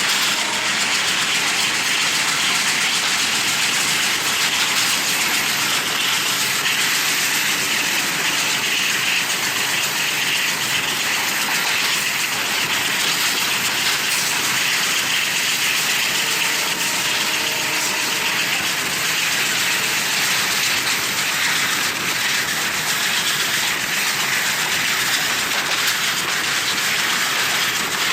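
Wind rushing over the microphone at an open window of a moving passenger train, with the train's running noise underneath: a loud, steady hiss with no breaks.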